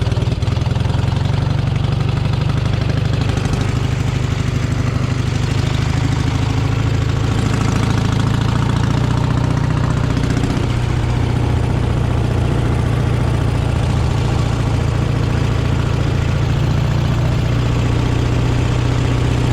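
Vehicle engine running steadily, a loud, even low drone with no change in pitch.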